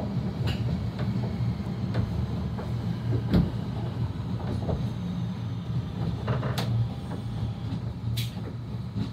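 Class 323 electric multiple unit running at speed, heard from inside the carriage: a steady low rumble of wheels on rail, with scattered clicks and knocks, the loudest about three and a half seconds in.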